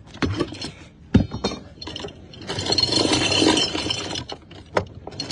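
Anchor chain clanking and rattling as it pays out on a small yacht: irregular metallic clinks, then a denser run of rattling for a couple of seconds in the middle as the chain runs out.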